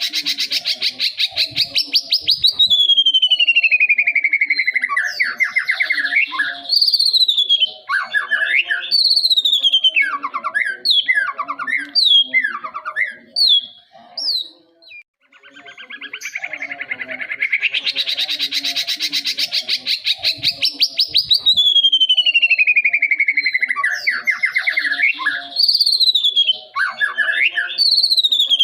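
White-rumped shama singing: a long, fast trill that slides down in pitch, then a run of clear rising and falling whistles. The same sequence comes round again about halfway through.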